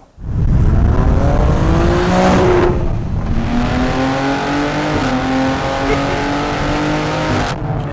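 BMW X3 M Competition's Stage 2-tuned twin-turbo 3.0-litre S58 straight-six, breathing through an Akrapovič cat-back exhaust, accelerating hard: the revs climb, break briefly about three seconds in as it shifts up, then climb again until the sound eases off near the end.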